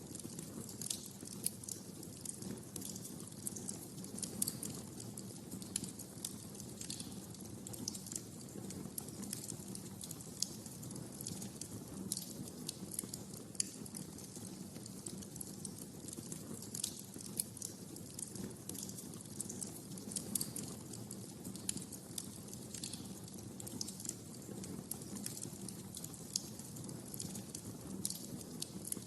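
Wood fire crackling, with irregular sharp pops and snaps over a steady low rumble of flames.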